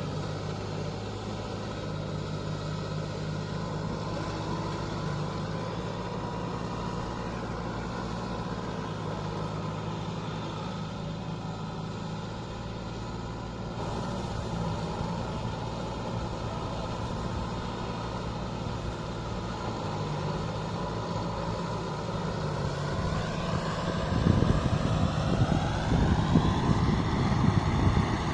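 Kubota MU5501 tractor's diesel engine running steadily, then near the end it revs up and runs louder and rougher, as under load.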